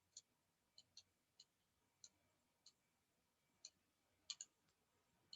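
Faint computer mouse clicks, scattered irregularly, with a louder quick pair about four seconds in.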